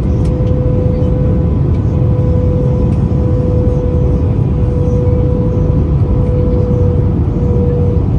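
Cabin noise inside an Airbus A320-214 in flight: a steady rumble of airflow and CFM56-5B engines with a constant droning tone over it.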